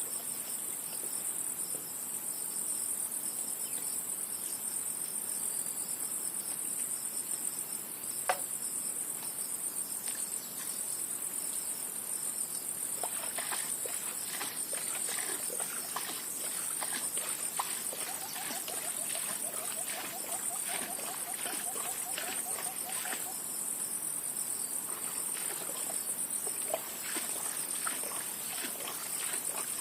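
Insects, such as crickets, trilling steadily at a very high pitch. A run of small clicks and ticks comes in the middle, along with a brief rippling call lower down.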